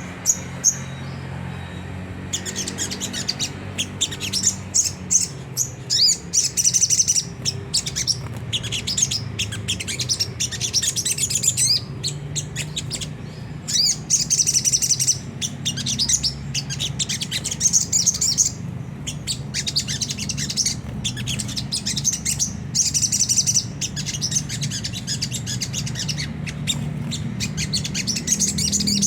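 Crimson sunbird (sogon) giving rough, rapid twittering chatter: high-pitched chirps and trills in repeated bursts, the 'ngriwik' call used to lure other sunbirds. A steady low hum runs underneath.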